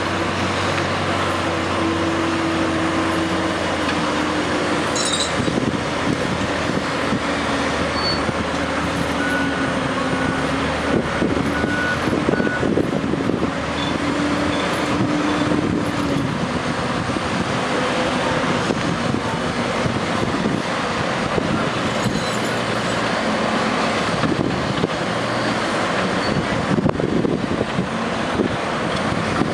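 Heavy diesel engines of oilfield rig-moving equipment running steadily under load, the engine note drifting up and down.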